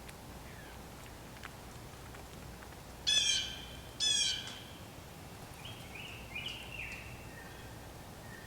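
Blue jay calling: two loud, harsh calls about a second apart, followed by a few softer calls.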